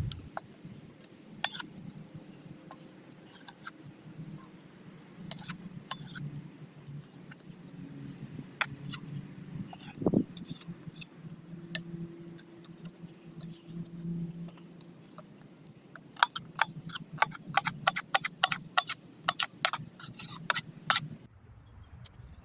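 Scattered clicks and clinks of cooking utensils, then a quick run of sharp taps for several seconds near the end, over a low steady hum.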